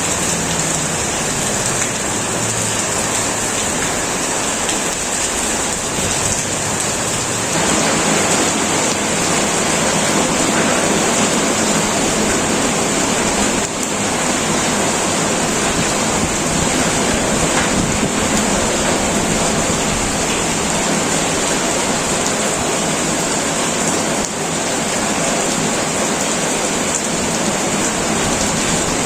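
Heavy rain pouring steadily onto a tin roof, growing denser about seven seconds in.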